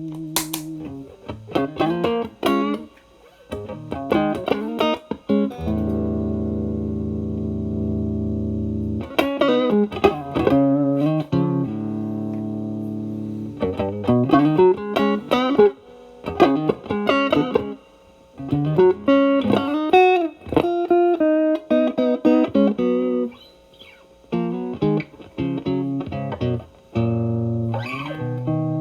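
Overdriven Stratocaster electric guitar played through an Xotic BB Plus preamp pedal into a Marshall Valvestate amp, in short lead phrases of single notes and bends with brief pauses between them. About six seconds in, a chord rings out and is held for roughly three seconds.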